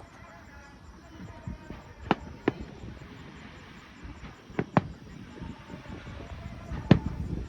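Fireworks shells bursting in the sky: sharp bangs that come in pairs about every two and a half seconds, the loudest pair near the end, over a low rumbling background.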